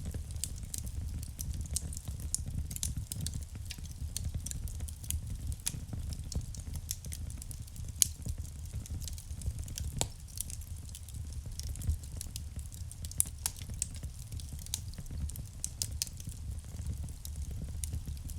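Wood fire burning in a fireplace: a steady low rumble of flames with frequent sharp crackles, and louder pops about 8, 10 and 13 seconds in.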